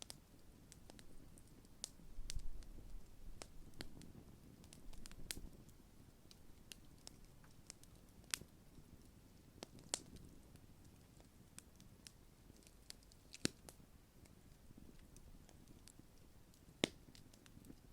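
Large wood campfire burning: scattered sharp crackles and pops, a few of them louder, over a faint low rush of the flames, with a couple of low rumbles in the first few seconds.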